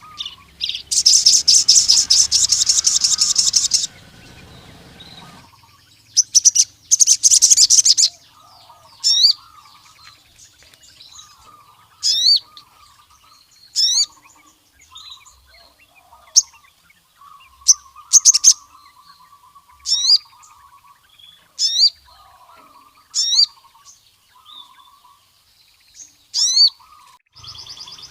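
A male sogon sunbird singing: two long, loud, very fast high-pitched rattling trills, then a string of short, sharp rising whistled notes repeated every second or two, with softer lower twittering beneath.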